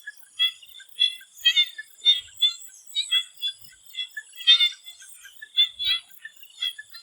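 A chorus of swamp frogs calling: many short, repeated calls overlapping several times a second at irregular intervals. Behind them runs a steady high-pitched hum with a faint fast pulsing above it.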